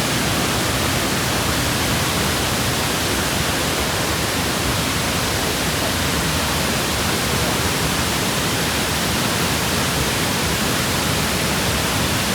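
Waterfall rushing: a loud, steady rush of falling water with no breaks.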